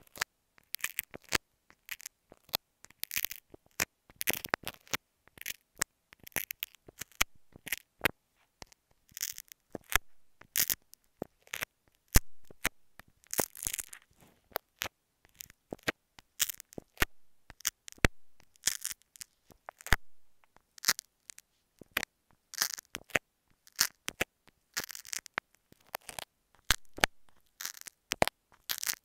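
Thumbtack pricking and scratching at an earphone microphone, close up: a quick, irregular run of sharp clicks, taps and crackly scrapes.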